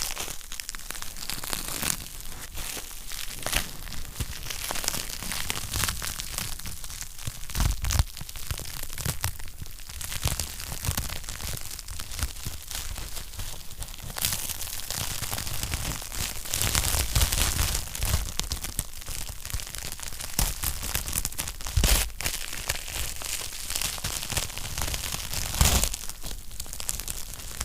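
Wood fire crackling steadily in a fireplace, a dense run of small snaps with a few sharper, louder pops.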